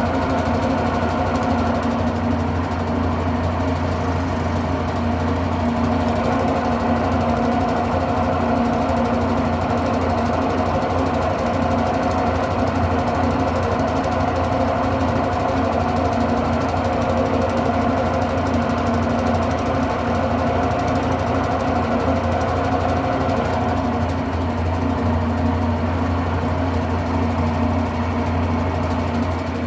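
Electrolux Turbo Limpeza 8 kg (LM08) top-load washing machine in its spin cycle: a steady motor hum with rattling and knocking. The drum runs off-balance because its suspension springs are broken.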